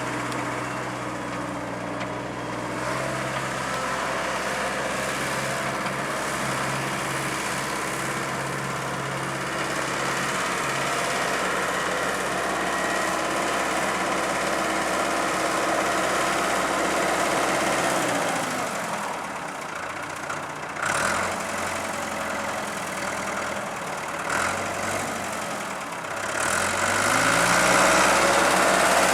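Ford 555D loader backhoe's diesel engine running steadily. About two-thirds of the way in its pitch drops as the revs come down, and near the end it revs back up and gets louder.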